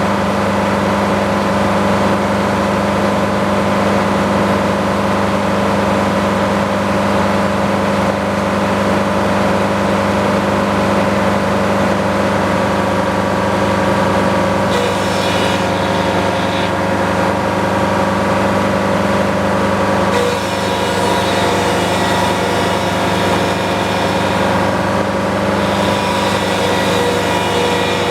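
A sawmill's engine running steadily at a constant speed. A higher hiss joins it about halfway through and again for most of the last third.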